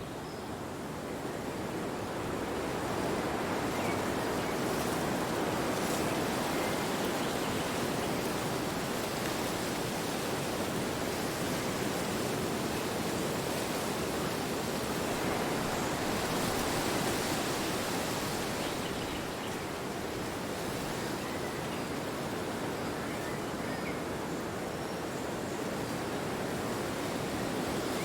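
Wind blowing steadily as a dense rushing noise, swelling slightly a few seconds in and again a little past the middle.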